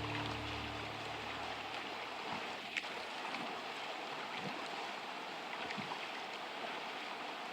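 Steady rushing noise, with a single sharp click about three seconds in. Background music fades out during the first two seconds.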